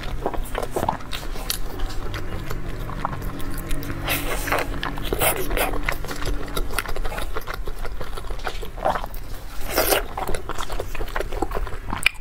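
Close-up eating sounds of steamed dumplings being chewed: wet chewing and lip smacking with many short clicks. There are louder smacks or slurps about four, five and ten seconds in.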